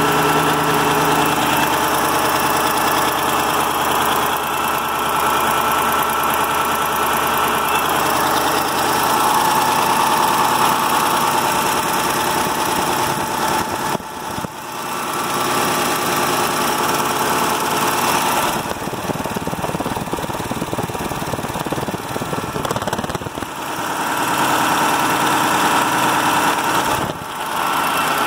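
Freshly rebuilt KAMAZ Euro-5 truck diesel engine running at idle after its overhaul. Its note shifts about ten seconds in, and the level drops briefly three times.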